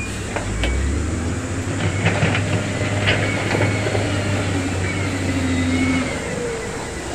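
A heavy diesel construction machine's engine working under load, with several sharp metallic clanks about two to three seconds in and faint high squeals rising and falling.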